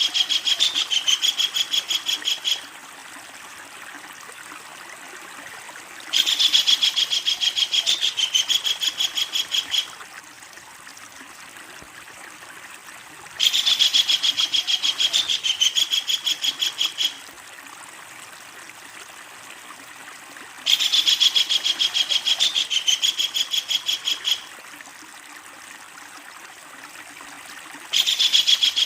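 Kingfisher giving its long, loud rattling call: a fast run of sharp, high notes lasting about three and a half seconds, repeated four times about every seven seconds, with a fifth run starting right at the end. A steady hiss like running water fills the gaps between calls.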